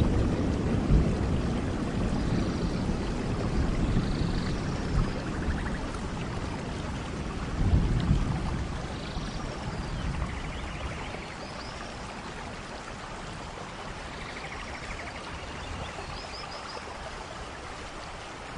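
Steady rain falling in a forest, with low thunder rumbles near the start and again about eight seconds in, and faint high chirps above the rain. The whole sound fades gradually down toward the end.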